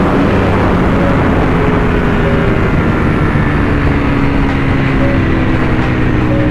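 Motorcycle engine running steadily while riding at speed, with rushing road and wind noise.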